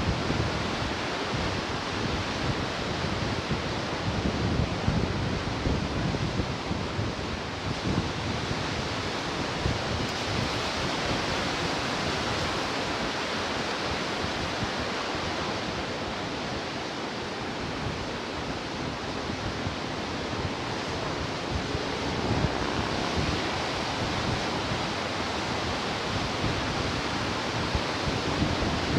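Pacific surf washing in steady, gently swelling waves, with wind rumbling on the microphone near the start and again near the end.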